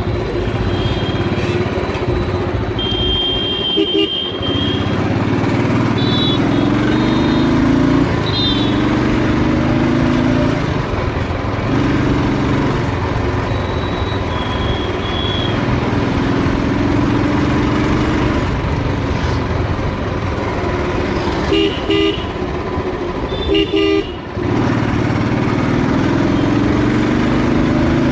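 Old Royal Enfield motorcycle engine heard from the rider's seat, its revs rising again and again as it pulls up through the gears, over road and wind noise. Vehicle horns give several short honks, two close together near the end.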